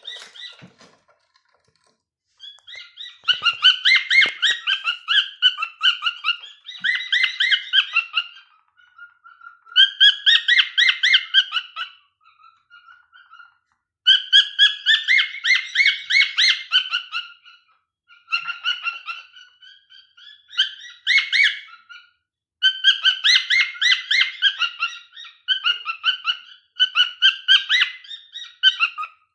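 Cockatiel singing: rapid chirpy warbling in runs of a few seconds each, broken by short pauses.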